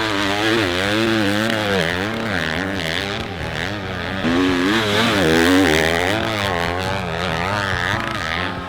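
Motocross dirt bike engine being ridden hard, its pitch rising and falling over and over as the throttle is worked and the gears change.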